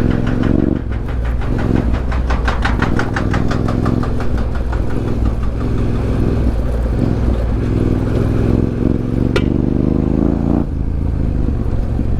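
Yamaha Ténéré 700 parallel-twin engine running under way, its pitch climbing from about 8 seconds in and dropping sharply a couple of seconds later. A fast, even clatter of about five ticks a second runs through the first half and fades out, and there is one sharp click near the end.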